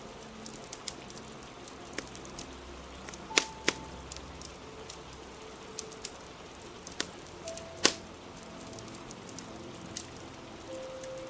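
Fire crackling with sharp pops, the loudest ones about three and a half and eight seconds in, over a steady hiss of rain. Soft music with held notes plays underneath.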